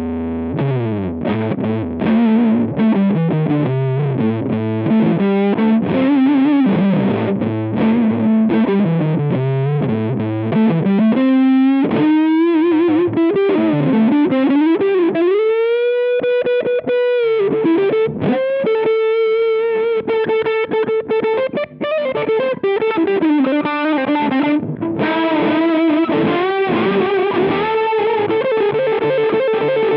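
Electric guitar played through a Rowin LEF-606 fuzz pedal, giving a thick fuzzed tone. Playing starts just under a second in with a riff on the low strings, moves into a long sustained note bent upward about halfway through, then goes on to held notes higher up the neck.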